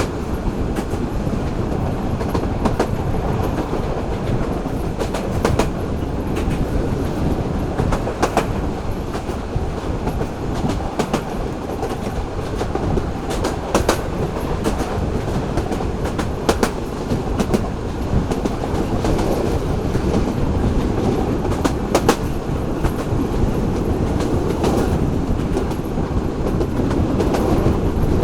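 Local passenger train running on the track: a steady rumble of wheels on rail, broken by sharp clacks at uneven intervals as the wheels cross rail joints.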